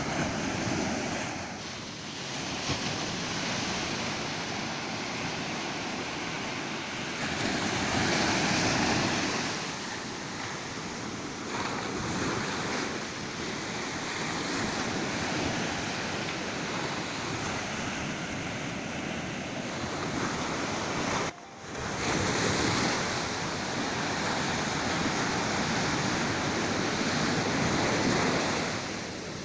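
Ocean surf washing onto a beach, a steady rush of breaking waves that swells and eases every few seconds. There is a momentary cut in the sound about two-thirds of the way through.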